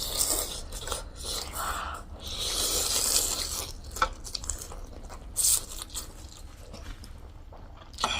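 Close-miked eating sounds: chewing and biting, with a few sharp clicks and a longer hissing stretch about two and a half seconds in.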